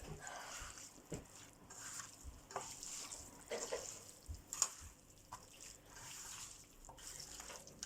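Raw chicken pieces being mixed by hand with spice powders in a bowl: faint wet sounds with scattered light clicks.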